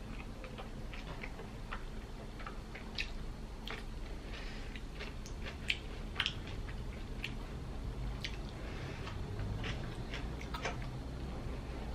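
A person chewing mouthfuls of soft bread and chicken-and-coleslaw filling, with irregular small wet clicks and smacks of the mouth.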